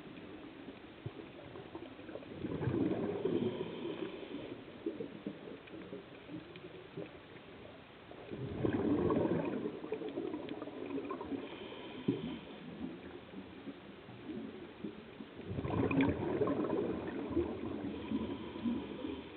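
Underwater bubbling from a scuba diver's regulator: three surges of exhaled bubbles about six seconds apart, with the faint hiss and tones of the regulator between them.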